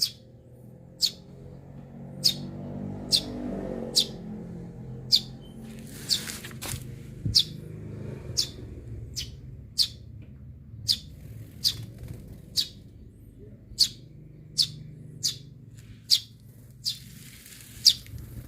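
Eurasian tree sparrow giving short, sharp single chirps, about one a second at an uneven pace, with a low hum underneath.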